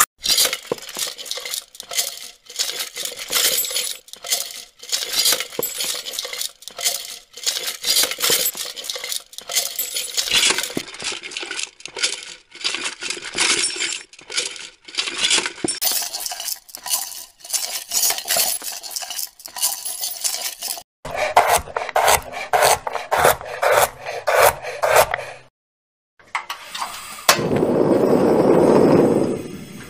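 Hands rummaging through a can full of small odds and ends: a quick, irregular run of clinks, rattles and scrapes. A few seconds from the end it stops, and after a short silence a steady hiss of cooking starts.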